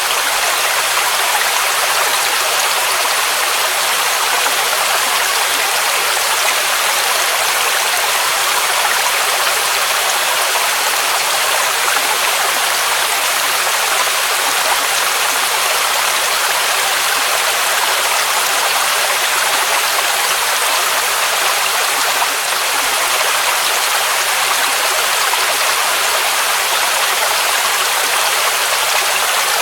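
Waterfall rushing in a steady, even hiss with little deep rumble, unbroken throughout.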